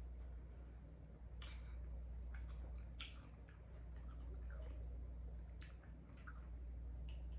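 Close-up mouth chewing with a few sharp smacks or clicks, mixed with soft wet squishing as a wooden spoon works through a saucy seafood boil in a glass dish. A low steady hum runs underneath.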